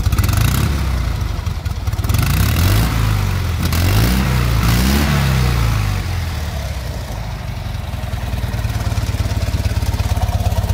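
Fiat 126p's two-cylinder engine idling through its old exhaust, blipped up a few times between about two and five seconds in, then settling back to a steady idle. The exhaust is rotted through, with a broken clamp and leaks blowing underneath.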